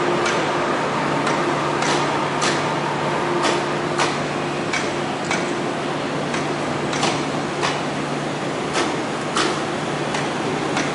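Inside an MTR Tsuen Wan Line train car rolling slowly, wheels clicking sharply and irregularly over rail joints and points, over a steady low hum and rushing noise of the running train and its ventilation.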